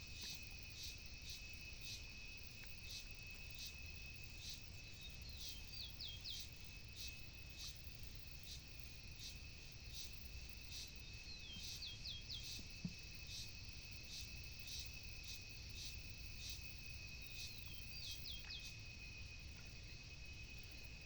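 Quiet open-air ambience: a bird sings the same short phrase three times, about six seconds apart, over an insect's steady high-pitched whine and regular high ticks about twice a second, with a faint low rumble of wind underneath.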